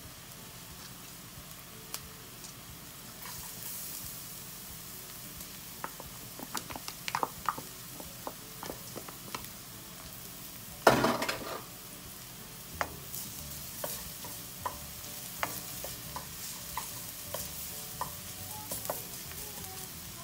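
Diced onion and minced garlic frying in a stainless steel wok with a steady sizzle. Scattered clicks and scrapes as the garlic goes in are followed by a louder burst lasting about a second, about eleven seconds in, then light knocks of a wooden spatula stirring.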